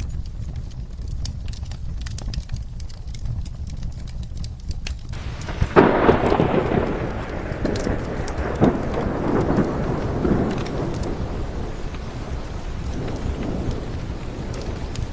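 Steady rain with a thunderclap about six seconds in that rolls away over several seconds, with a couple more cracks as it fades.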